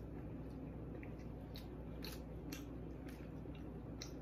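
A person chewing a mouthful of baked ziti, with a few brief soft mouth clicks, over a faint steady low hum.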